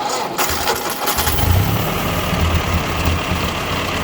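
1957 Ford 841 tractor's four-cylinder gasoline engine restarted after being shut off: a brief crank, then it catches about a second in and runs steadily. It is running on a newly fitted replacement carburetor.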